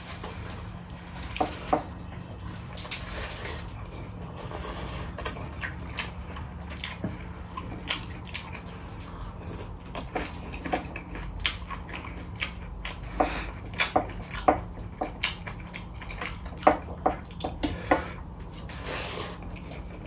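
Close-up mukbang eating sounds: wet chewing and lip smacks as a mouthful of rice and chicken curry is eaten by hand, in many short sharp clicks that come thicker in the second half.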